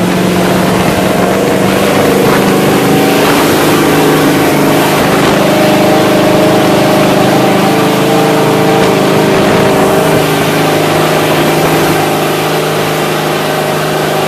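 Monster truck's engine running steadily under load during a ride, over a constant rushing noise. Its pitch drops about ten seconds in.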